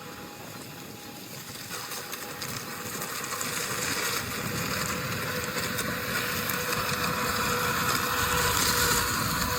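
Robot lawn mower's electric drive and cutting blades running with a steady, faint hum, gradually growing louder.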